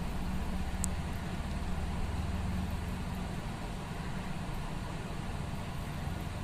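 Steady low background hum and rumble, with one faint click about a second in.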